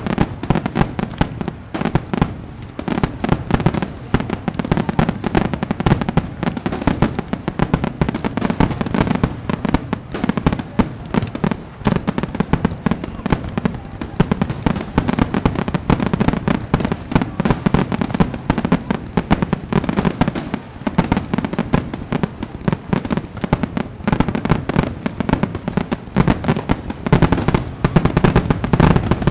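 Fireworks display: a dense, continuous run of rapid bangs and crackles, a little louder near the end.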